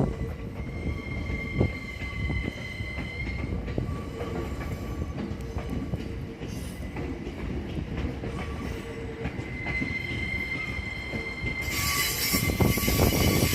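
A train rolling slowly into a depot, its steel wheels squealing on the rails in steady high tones that fade and return over a low rumble. A loud hiss joins in near the end.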